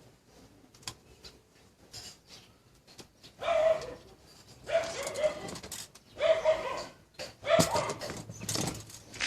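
A dog barking four times, about one and a half seconds apart, after a few faint clicks.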